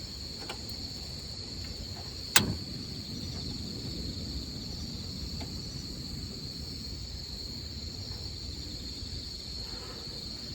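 Crickets or other night insects trilling steadily in one high, unbroken tone, with a single sharp click about two and a half seconds in.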